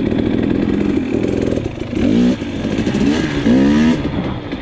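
Dirt bike engine running while being ridden, revving up twice: briefly about two seconds in, then longer about a second later.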